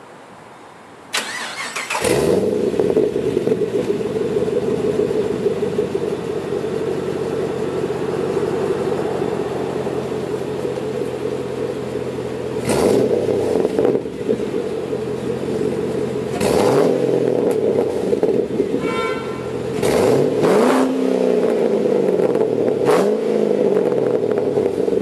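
A 2009 Caprice SS's 6.0-litre V8 with a Magnaflow cat-back exhaust and the catalytic converters removed, cranked on the starter about a second in and catching a second later, then idling steadily. It is blipped briefly four times, once around halfway and three times near the end.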